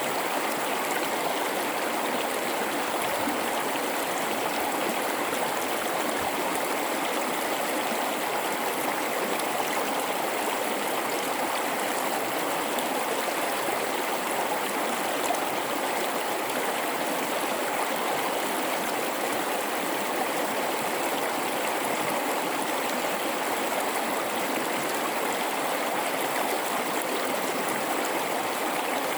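River flowing through a rocky gorge: a steady rush and babble of water over rocks, unchanging throughout.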